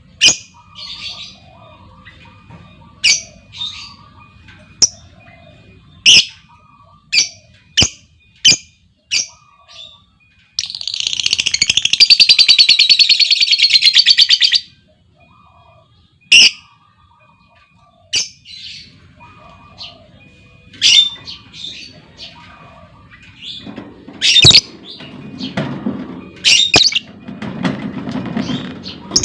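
Lovebirds giving sharp, short chirps at irregular intervals, with one long, rapid chattering trill (the 'ngekek') lasting about four seconds from about ten seconds in. A low rumble comes in near the end.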